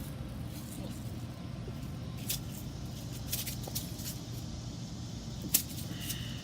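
Several light, sharp clicks from a plastic jar of dry water beads being handled as the beads are added, over a steady low background hum.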